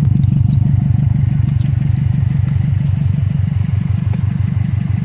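Exhaust of a 2005 Subaru WRX's turbocharged 2.0-litre EJ205 flat-four, fitted with a Godspeed aftermarket cat-back system, idling steadily with an even low pulsing note.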